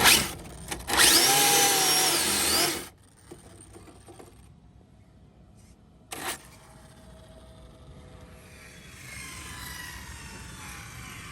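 A small electric motor revs with a loud, high-pitched whine for about two seconds, after a sharp knock. A short knock follows a few seconds later, then a fainter whine that falls in pitch near the end.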